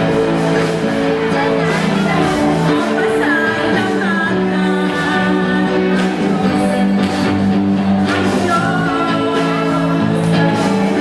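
Live band music with a lead voice singing over held chords and drums, at a steady loud level.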